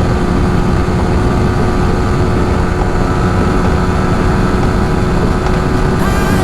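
Yamaha R15 V3's 155 cc single-cylinder engine running at high revs, a steady loud drone through a stock exhaust modified with a wider inner pipe for a louder, freer-flowing note.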